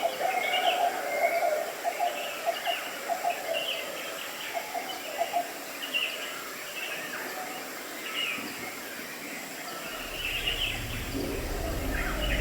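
Several birds chirping and calling in short, repeated phrases. Near the end a low, steady hum comes in and grows louder.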